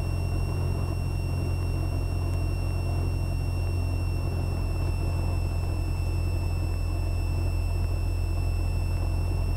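Cessna 172R's four-cylinder Lycoming engine and propeller running steadily, heard inside the cockpit as an even low drone, with a faint thin steady whine above it.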